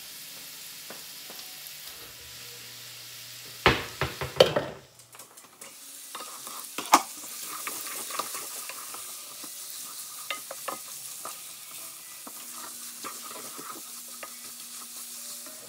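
Zucchini noodles, chicken and pesto sizzling in a skillet while a wooden spoon stirs and tosses them, with light scrapes and ticks against the pan. A cluster of loud knocks comes about four seconds in, and a single sharp knock comes a few seconds later.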